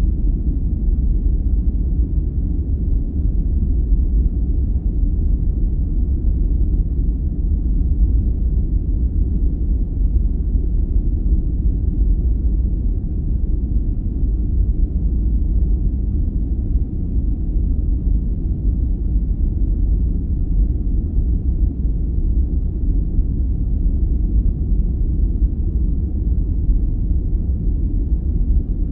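Steady, unchanging low rumbling noise for sleep, deep and dark with no high hiss, in the manner of brown noise.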